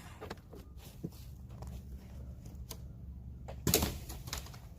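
Scattered light clicks and knocks, with one louder knock about three and a half seconds in, over a low steady rumble.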